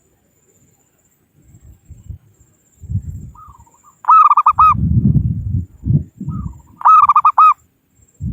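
Zebra dove (perkutut) calling twice, each call a short rising note followed by a quick run of pulsing coos. Low rumbling noise comes and goes between and under the calls.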